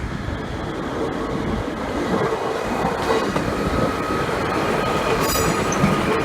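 A train moving through the station, a steady running noise with a hum, and a brief high-pitched squeal about five seconds in.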